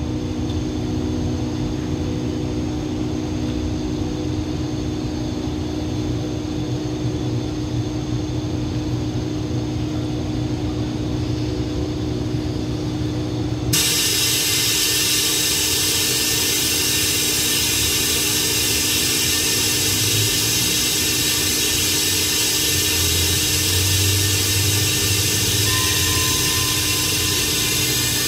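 Diesel-hauled passenger express standing at a platform, its engines humming steadily with a low drone and a few steady tones. About halfway through, a loud steady hiss starts suddenly and keeps on over the hum.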